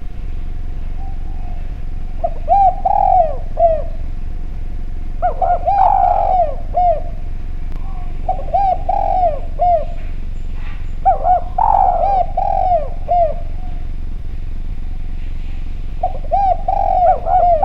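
Spotted dove (derkuku/tekukur) cooing: five bouts of short, arched coos, each bout a quick run of several notes, coming about every three seconds, the last running on past the end.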